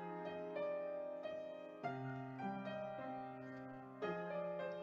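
Soft background piano music, slow notes and chords struck every second or so.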